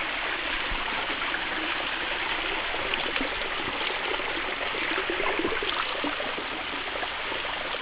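Small cascading waterfall: a steady rush of water falling over rock shelves.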